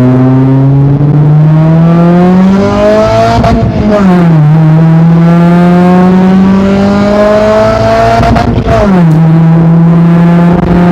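Honda D15B 1.5-litre four-cylinder engine accelerating hard through the gears, its pitch climbing steadily and then dropping sharply at two upshifts, about four seconds in and again near the end.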